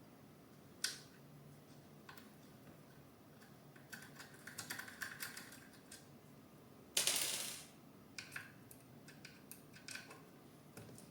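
Light clicks and taps of printer parts being handled during assembly of a Bambu Lab A1 3D printer: a sharp click about a second in, a quick cluster of small clicks in the middle, and a brief louder noise of about half a second near seven seconds, followed by a few more scattered clicks.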